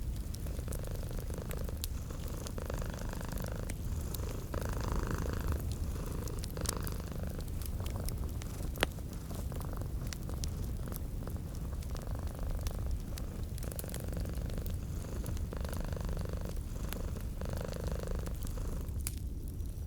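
Domestic cat purring steadily close up, swelling and easing with each breath, over a fireplace crackling with scattered small pops. One louder pop comes about nine seconds in.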